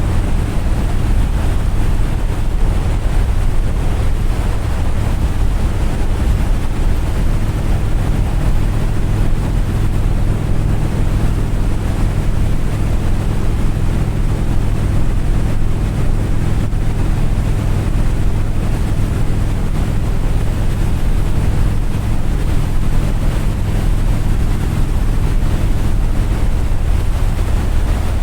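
A steady, loud engine rumble mixed with heavy wind noise buffeting the microphone, unchanging throughout.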